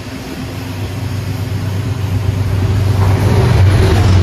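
Amtrak GE P32AC-DM diesel locomotive passing through the station at speed, its engine drone growing louder as it closes in, with the rushing noise of the passing train rising over the last second or so.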